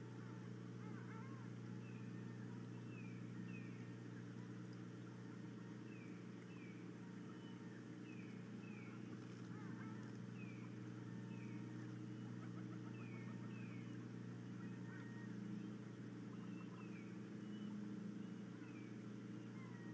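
A bird calling in short, falling chirps, mostly in pairs, repeated every two to three seconds over a steady low hum.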